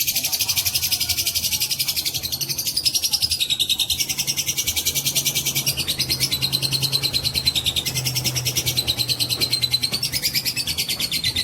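Lovebird giving a long, unbroken 'ngekek' chatter: a fast, even trill of high, shrill pulses that carries on without a pause and stops abruptly near the end.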